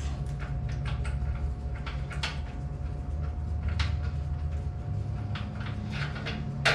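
Scattered light clicks and knocks from parts being handled, the sharpest near the end, over a steady low hum with a faint steady tone.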